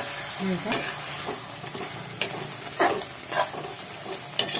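Spiced tomato masala frying in oil in a pan, with a steady sizzle, while a spoon stirs and scrapes it against the pan several times.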